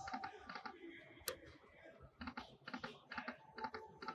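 Lightning Link slot machine's spin sounds: runs of short pitched clicks, about four a second, as the reels spin and stop, with one sharper click about a second in.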